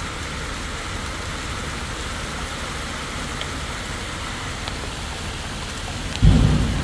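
Hailstorm pelting down, a steady hiss of falling hail and rain with a few faint sharp ticks. About six seconds in comes a sudden loud low thump.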